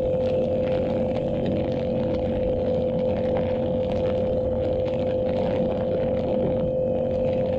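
Yamaha YZF-R7's 689 cc parallel-twin engine through an SC-Project aftermarket exhaust, running steadily with no change in revs.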